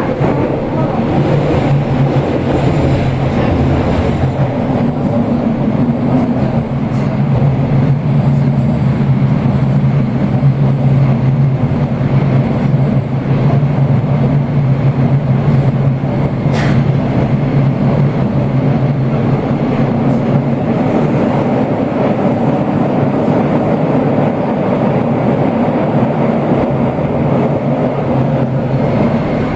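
Toei Oedo Line 12-600 series linear-motor subway train running through the tunnel: a loud, steady running noise with a low hum, and one brief click about 17 seconds in.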